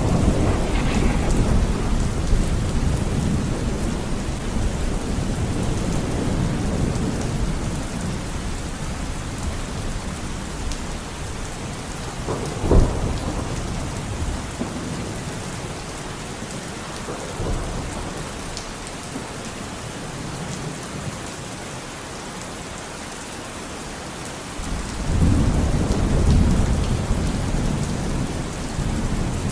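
Steady rain with rolling thunder. A low rumble fades away over the first several seconds, a sharp crack comes about halfway through, and a new rumble builds near the end.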